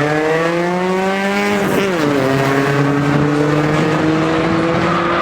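Car engine under hard acceleration: its pitch climbs, drops sharply less than halfway through as at a gear change, then holds and slowly rises again.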